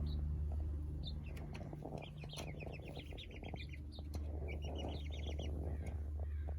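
Young chickens chirping in two quick runs of short high peeps, the first about two seconds in and the second about four and a half seconds in, over a low steady hum.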